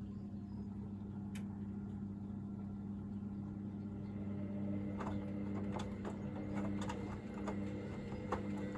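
Hoover VisionDynamic washing machine draining: the drain pump hums steadily, with a few light clicks about a second apart in the second half.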